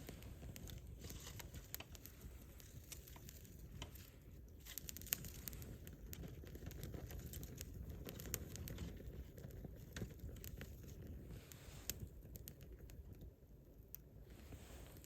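Wood fire crackling: scattered sharp pops and snaps of burning wood over a low, steady rumble. The sharpest pop comes about five seconds in.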